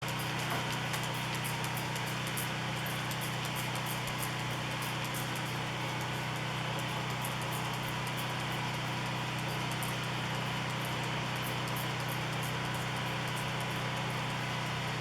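A power tool's motor running steadily and unchanging, with a hiss above its low hum.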